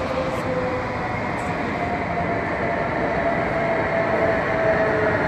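Passenger train pulling into the station platform: a steady rumble of wheels and motors with a thin whine over it, growing louder as it comes in near the end.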